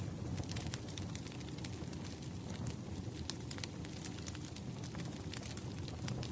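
Wood fire crackling: a steady low rumble of burning logs with frequent sharp pops and snaps.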